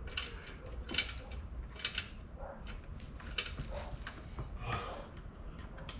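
Irregular small clicks and scrapes of hand tools working metal parts, a screwdriver among them, with a sharper click about once a second.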